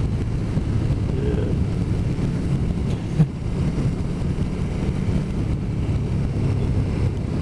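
Motorcycle engine running at a steady road speed, a low, even drone with road noise, and a single short knock about three seconds in.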